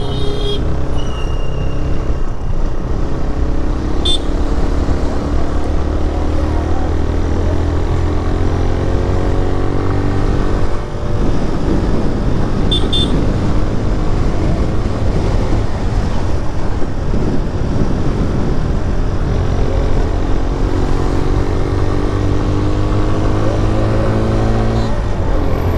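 TVS Raider 125's single-cylinder engine running while riding, its pitch rising slowly as it picks up speed twice, over a steady low road and wind rumble.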